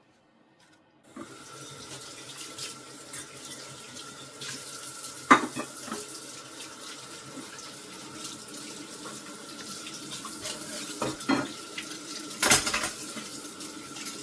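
Water running from a tap into a kitchen sink, starting about a second in, with dishes and cutlery knocking a few times, loudest about five seconds in and near the end.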